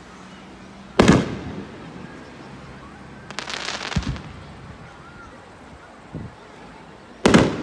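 Aerial fireworks shells bursting, each with a short echo: a loud bang about a second in, a stretch of crackling in the middle that ends in a low thump, a softer thump, then another loud bang near the end.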